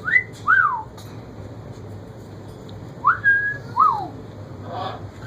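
A pet parrot whistles a rising-then-falling wolf whistle twice, once at the start and again about three seconds later.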